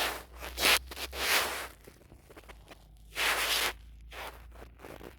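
Domestic cat purring in a low, steady rumble while kneading, with a few short scratchy rustles of fabric each about half a second long.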